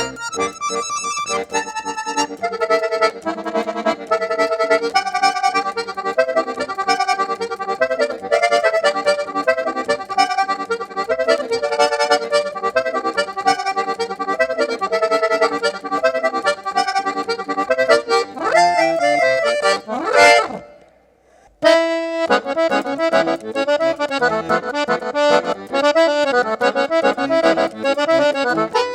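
Accordion (sanfona) playing a fast melodic piece with dense runs of notes. About two-thirds of the way through, a quick upward run ends in a break of about a second before the playing starts again.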